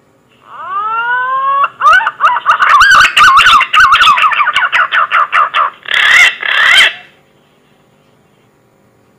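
Green pigeon (punai) call: a rising whistle, then a rapid warbling run of whistled notes lasting about four seconds, ending in two short rising notes.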